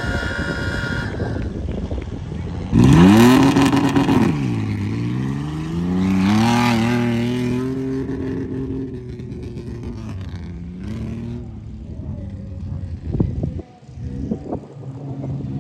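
Off-road tuff truck engine revving hard: the pitch climbs sharply about three seconds in, drops, climbs again under load, then eases back to a lower running note.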